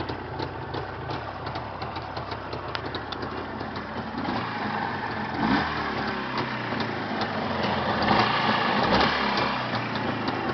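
Jawa motorcycle engine running at idle, getting somewhat louder from about halfway through.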